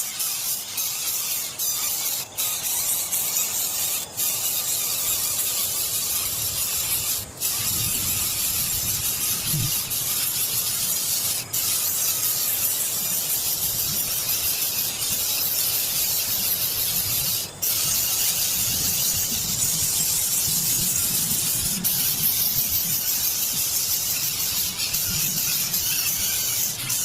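A steady hiss that drops out briefly a handful of times.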